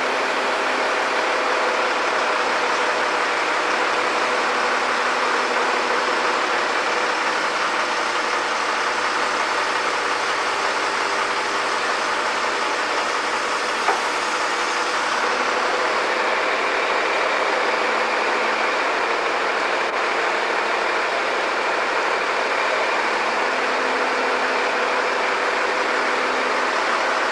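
Heavy construction equipment engine running steadily, a constant mechanical drone with hiss. There is a single sharp click about halfway through.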